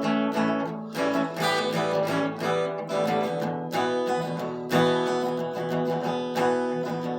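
Acoustic guitar strummed in an instrumental passage, with repeated chord strokes and no singing.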